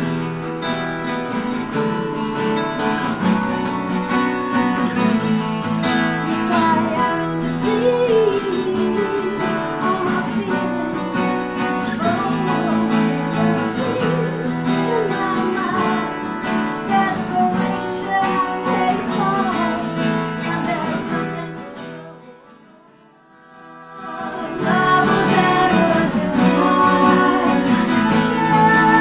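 Acoustic guitar band music, strummed guitars with a gliding melody line over them. It fades out about 22 seconds in and fades back in a couple of seconds later.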